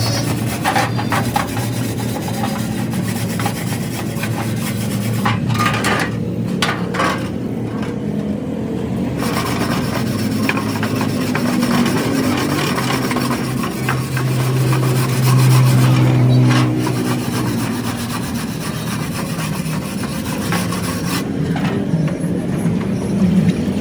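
Continuous scraping and rasping of hand tools working the metal of a bus radiator, over a low hum.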